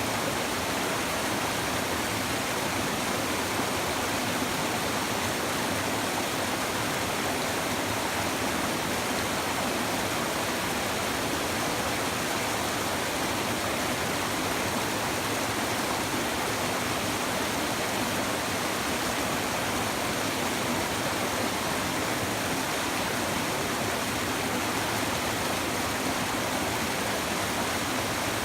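Shallow river babbling over stones, a steady even rush of flowing water.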